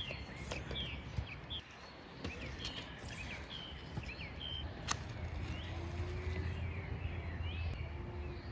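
Small birds chirping with many short, quick calls over a steady background hiss, with a single sharp click about five seconds in.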